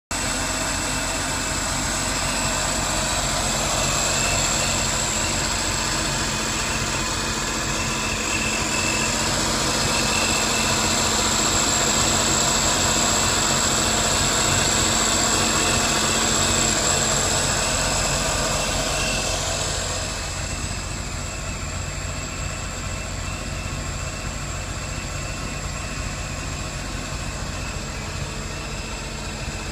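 2014 Scarab 195 jet boat's Rotax engine running steadily, with a high thin whine over the engine note. About twenty seconds in it eases to a quieter, duller running.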